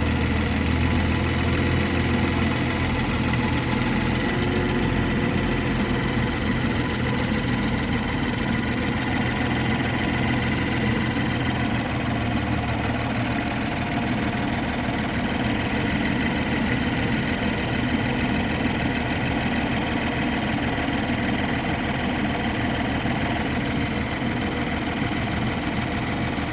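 BMW 440i's 3.0-litre turbocharged inline-six idling steadily during warm-up after a cold start, the phase in which its owner reports a rattle. The low engine hum eases slightly about five seconds in.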